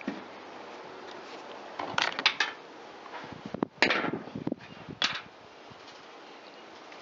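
Small metal parts and hand tools clicking and knocking on a workbench as a chainsaw's cover and parts are taken off, in a few short clusters, the loudest about halfway through.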